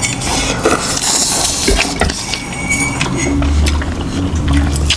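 Close-miked eating sounds: wet slurping and chewing of soupy noodles, with scattered small clicks.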